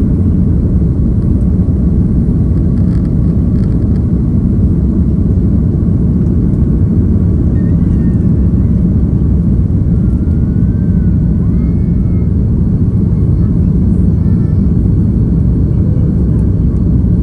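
Steady, loud low rumble of a jet airliner's cabin noise, engines and airflow, holding at an even level.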